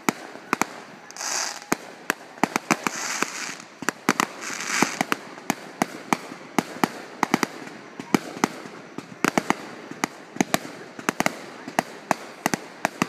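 Aerial fireworks going off in a rapid, irregular barrage of sharp bangs, several a second. Stretches of hissing crackle sound in the first five seconds.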